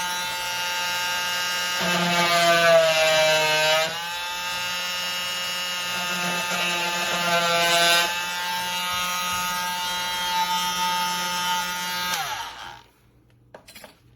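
KIMO 20V cordless oscillating multi-tool running with its blade cutting into a wooden door jamb. Its whine dips in pitch and recovers a few times as it is pushed into the wood, then it is switched off about twelve seconds in and winds down.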